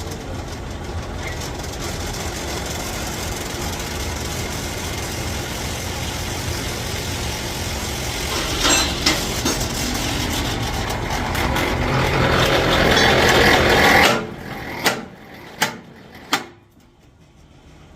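A heavy machine's motor runs steadily, growing louder over several seconds, then stops abruptly about fourteen seconds in; three sharp metallic knocks follow.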